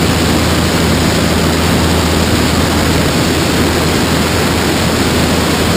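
Cessna 172's four-cylinder piston engine and propeller running steadily at climb power, a low drone under heavy rushing air noise.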